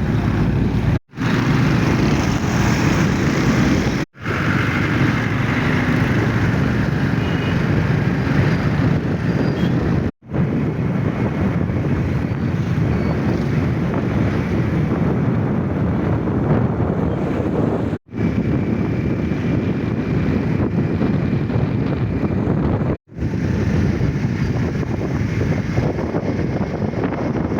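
Wind rushing over the microphone of a moving bike, with a steady low road and vehicle noise underneath. The sound cuts out for an instant about five times.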